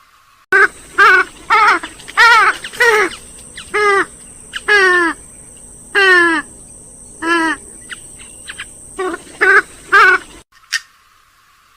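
Rail-family waterbird (swamphen or moorhen type) giving a series of about fifteen loud calls, each falling in pitch, over a steady high-pitched hiss in the recording. The calls start about half a second in and cut off abruptly near the end.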